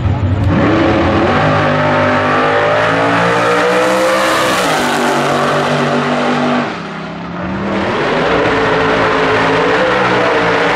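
Drag-racing car engine running hard at high revs. Its note dips briefly about seven seconds in, then picks back up.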